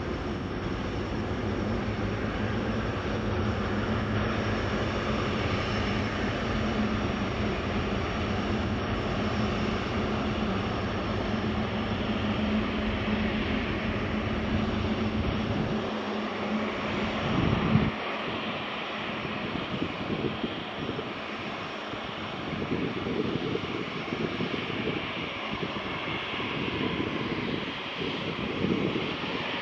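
Boeing 777-300ER's GE90 jet engines running, a steady noisy whine with a low hum under it. About eighteen seconds in there is a brief loud bump and the low hum drops away, leaving a thinner engine noise.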